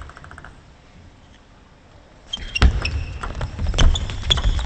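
A table tennis ball bouncing in a few quick ticks, then, about two seconds in, a sudden burst of crowd clapping and cheering in the hall, a dense clatter of sharp claps over a low rumble.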